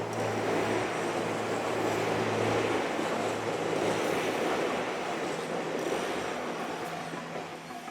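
A train passing on the Kagoshima Main Line: a dense rush of wheel-on-rail noise that builds over the first few seconds and slowly fades toward the end.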